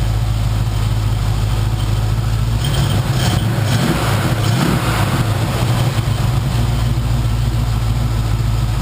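1977 Camaro's 350 small-block V8 idling steadily just after a cold start, with a brief swell of louder noise about halfway through.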